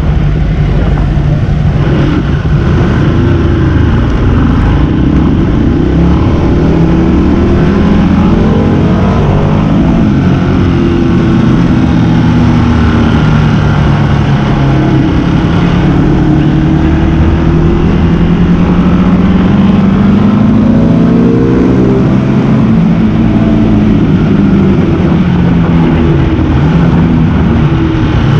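Motorcycle engine on a race track, revving up and dropping back again and again as it accelerates and shifts and slows for corners, over a steady rush of wind and road noise.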